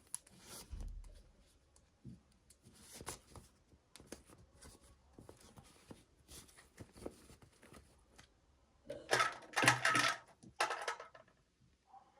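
Toy packaging being handled: small plastic clicks and taps with rustling, and a louder stretch of crinkling or tearing about nine seconds in.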